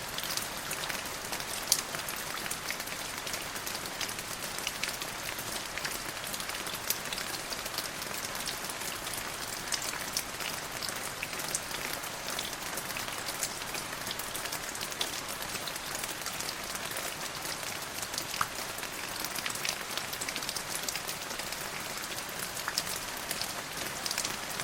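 Steady rain falling on a surface, a constant hiss with many individual drops ticking sharply against it.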